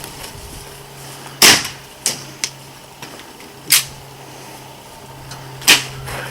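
Single airsoft gun shots: about five sharp pops at uneven intervals, the loudest about a second and a half in.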